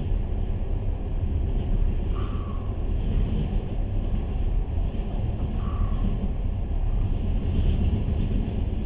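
Passenger train in motion: the steady low rumble of its running. A short falling whine sounds about two seconds in and again near six seconds.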